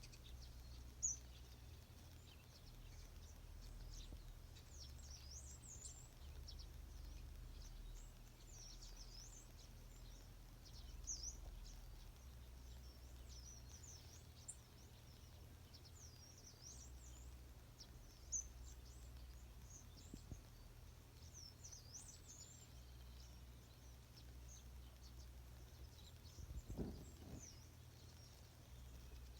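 Small birds chirping and twittering in the morning, short high calls scattered throughout over a faint low rumble, with a brief low thump near the end.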